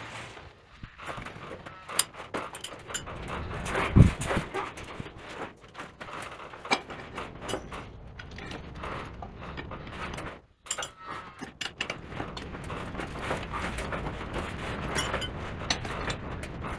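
Irregular metallic clicks and knocks of hand tools working on old sawmill bolts and nuts, with one loud knock about four seconds in.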